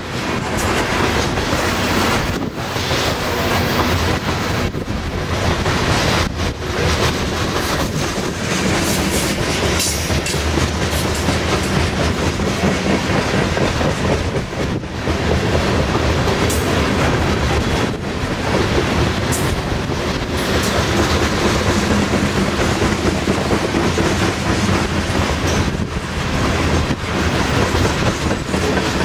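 Loaded coal hopper cars of a freight train rolling past, a steady, loud run of steel wheels on rail.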